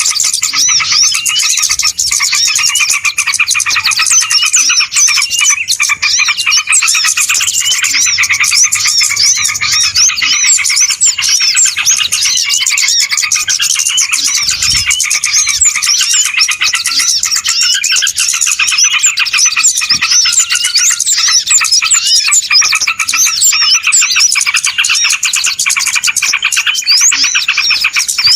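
Dense, noisy chorus of many small birds chirping and trilling rapidly and without pause, a bird-lure (pikat) call recording used to draw small birds in.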